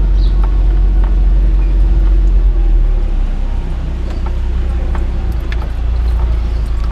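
Motor vehicle running: a strong low rumble with a steady engine hum, easing off about three seconds in, and scattered light clicks and knocks.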